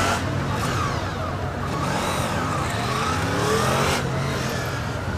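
Several police motorcycle engines revving up and down as the bikes ride manoeuvres, their pitches overlapping in rising and falling glides.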